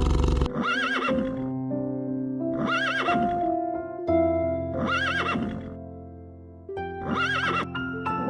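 A horse whinnying four times, about two seconds apart, each call short and quavering, over background music with sustained notes.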